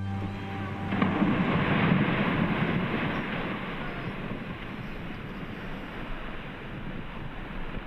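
Ice breaking off the front of the Perito Moreno Glacier with a rumbling roar and crashing into the lake. The roar rises about a second in, is loudest soon after, then settles into a steady wash of noise.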